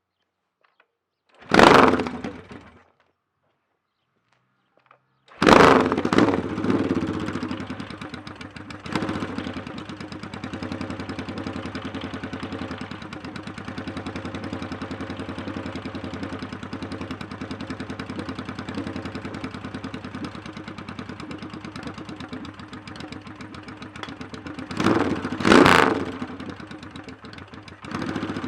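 A rebuilt 700cc Yamaha XS650 parallel-twin with a 277-degree rephased crank, started for the first time: it fires briefly about a second and a half in and dies, then catches a few seconds later and keeps running. It gets short throttle blips and settles to a steady idle, with a double rev near the end.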